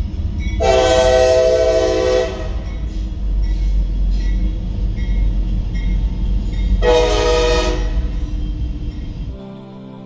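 Train horn sounding two blasts, a longer one about a second in and a shorter one near 7 seconds, over a steady low rumble of a running train.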